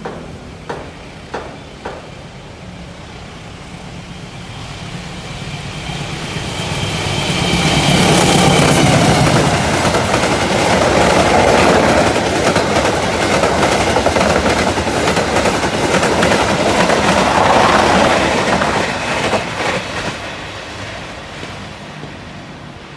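A diesel-hauled passenger train passes close by. The rumble builds over several seconds, the wheels clatter rapidly over the rail joints for about ten seconds, then the sound fades as the last coaches go by. Three sharp clicks come in the first two seconds.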